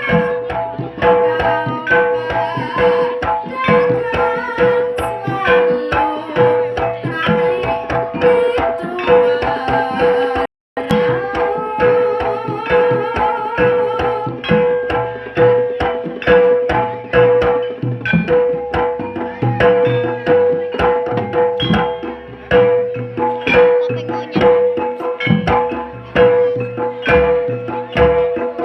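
Live jaranan ensemble music: rapid hand-drum (kendang) strokes over a steady, regularly repeated pitched note, with a wavering melody line above. The sound cuts out for a split second about ten seconds in.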